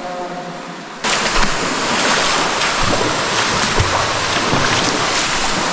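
Loud, steady rush of a large underground waterfall, cutting in abruptly about a second in.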